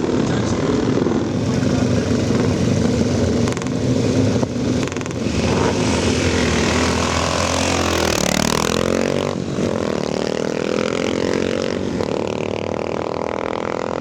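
Classic sprint motorcycle engine running steadily, then revving up sharply about eight seconds in and holding at higher revs.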